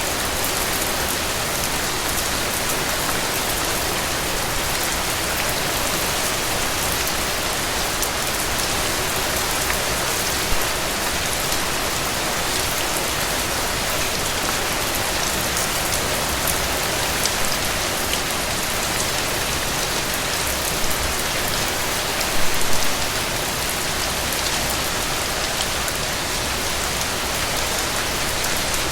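Steady rain falling on a roof, a dense even patter with a few slightly louder drops hitting now and then, most around twenty-two seconds in.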